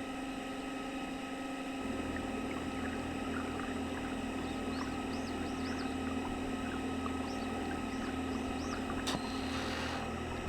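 Radio-controlled model boat's motor and propeller running with a steady hum, getting fuller and louder about two seconds in. A few short high bird chirps and one sharp click come near the end.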